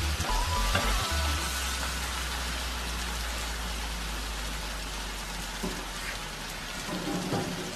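Onion, garlic-ginger and tomato paste sizzling steadily in hot mustard oil in a nonstick frying pan, with a spatula stirring and scraping through it for about the first second and a half.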